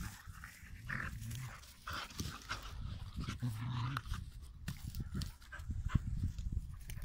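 Dogs play-fighting, panting, with two short low growl-like sounds.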